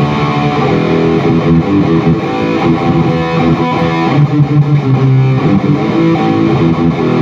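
Electric guitar played through a Zoom G1X Four multi-effects pedal into a Peavey 6505+ combo amp, with a distorted tone. Chords and notes ring on without a break.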